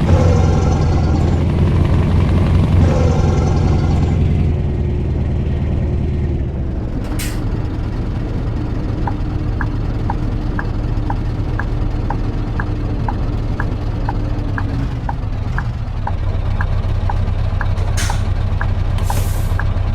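Scania V8 truck engine running under way, its note dropping about four seconds in. Short air hisses come about 7 seconds in and twice near the end, and a turn signal ticks about twice a second through the second half.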